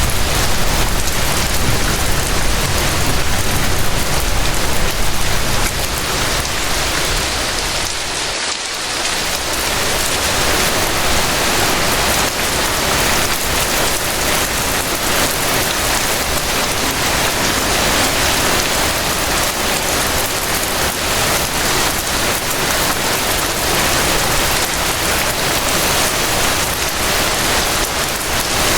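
Steady rain falling, a dense, even hiss, a little louder in the first few seconds and dipping briefly about eight seconds in.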